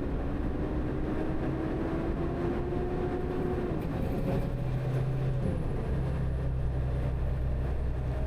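Front-load garbage truck's diesel engine pulling away at low speed, its pitch rising slowly and then dropping about four seconds in and again a little later as the transmission shifts up.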